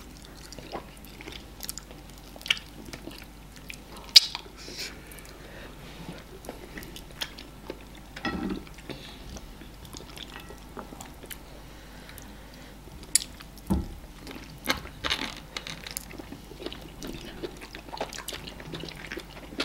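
Close-miked chewing and mouth smacks of two people eating amala with ogbono soup and assorted meat by hand: an irregular string of short smacks and clicks.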